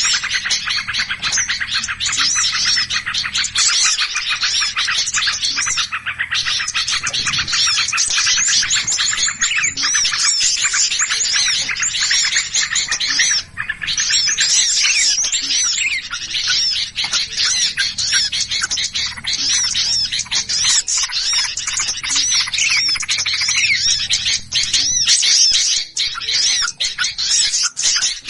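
Dense, agitated chorus of many small songbirds chirping and twittering at once, a continuous fast run of overlapping high chirps. This is the 'ribut' (alarm and mobbing) noise used as a lure call to attract small birds.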